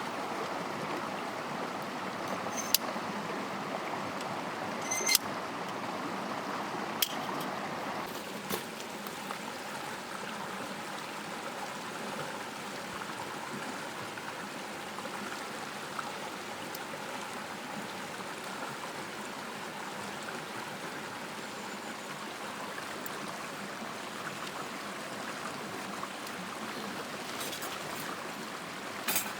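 Mountain headwater stream running steadily, with a few sharp clicks in the first several seconds.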